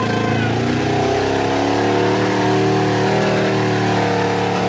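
Ford 289 V8 with open headers running hard, revs climbing over the first couple of seconds and then held high, heard from inside the truck's cab.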